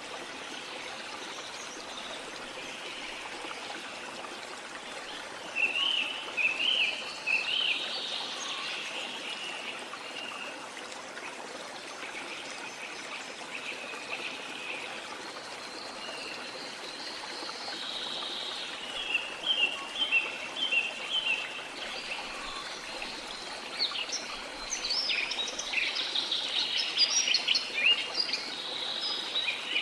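Steady rush of a waterfall, with birds calling over it in spells of quick, high chirps: about six seconds in, again around twenty seconds, and most busily near the end.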